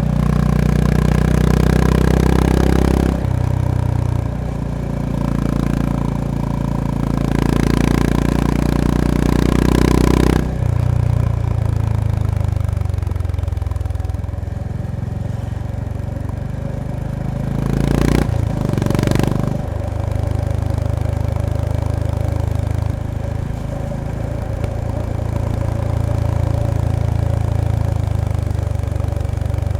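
Honda GB350S (CB350RS) single-cylinder engine and exhaust running under way, its note stepping through gear changes a few seconds apart, with a short burst of revs about two-thirds through.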